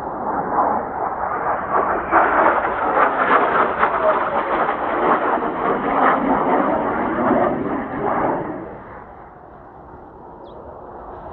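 Kawasaki T-4 jet trainers passing overhead: the jet noise swells, holds loud and crackling for about six seconds, then fades away about eight seconds in.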